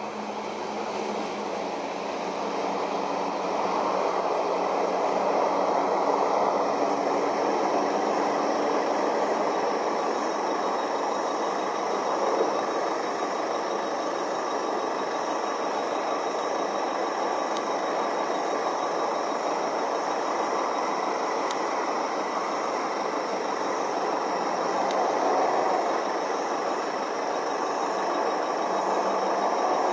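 Truck engine running steadily, a continuous rumbling noise with no clear change in pace.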